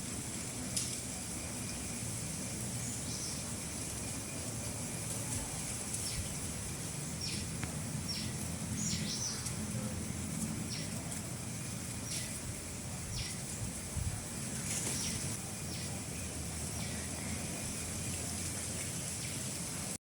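Steady background noise with a low rumble, and a dozen or so short, high bird chirps scattered through it.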